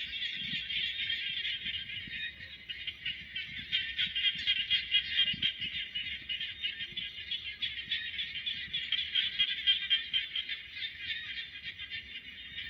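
Night chorus of calling insects: a steady, dense, high-pitched trilling that swells slightly in the middle.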